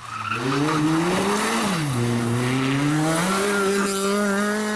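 Rally car engine revving hard under acceleration: its pitch climbs, drops sharply about two seconds in, then climbs again and holds high, over a loud rushing noise.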